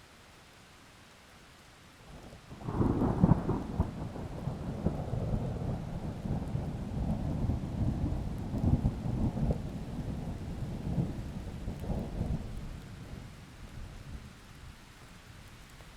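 A thunder clap over steady rain: it starts suddenly about three seconds in, rumbles low for about ten seconds, and fades away near the end.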